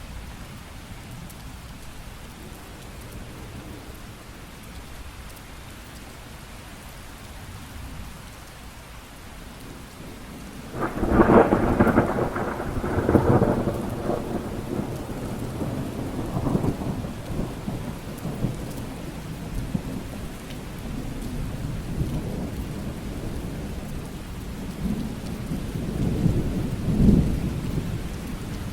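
Steady rain falling, broken about a third of the way in by a sudden loud thunderclap that rolls on as rumbling for several seconds. A second rumble of thunder swells near the end.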